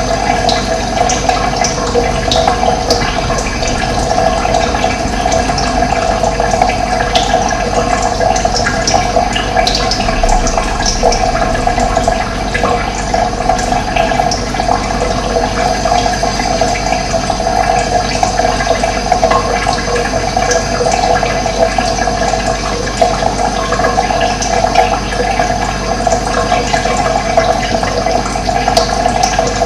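Running water rushing steadily, with scattered short bird chirps above it.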